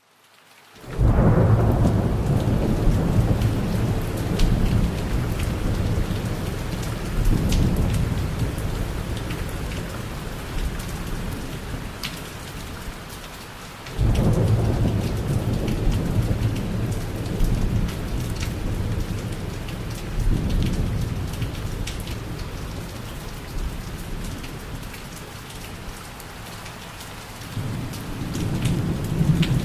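Steady rain falling on a surface, with many separate drops ticking, under deep rolling thunder. The thunder swells in about a second in, rolls in again suddenly about halfway through, and builds once more near the end.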